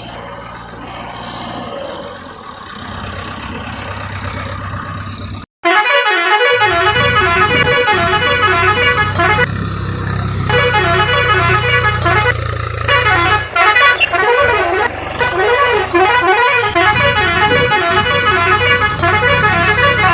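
A vehicle sound for the first five seconds or so, then a sudden cut to a loud, continuous vehicle horn honking with a warbling pitch that rises and falls over and over.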